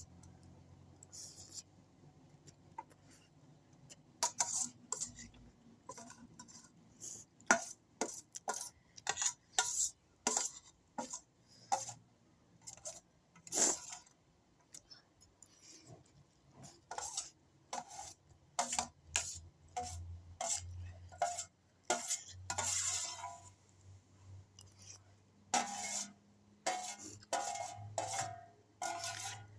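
Spoon or fork clinking and scraping against a plate in irregular taps while noodles and rice are eaten.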